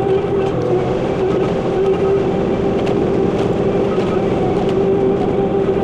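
Bobcat T86 compact track loader's diesel engine and hydraulics running steadily under work, with a constant high hum over the engine drone.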